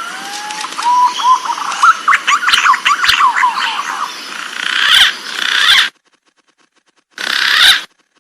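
Green pigeon (punai) calling: whistled notes glide upward, then break into a quick run of rising whistles. The sound cuts off abruptly about six seconds in, and a short noisy burst follows near the end.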